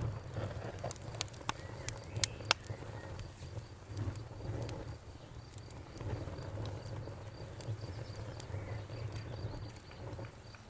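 Wood fire burning with a low rumble and sharp crackles and pops, most of them in the first few seconds, while a cricket chirps in a steady, even run of high pulses.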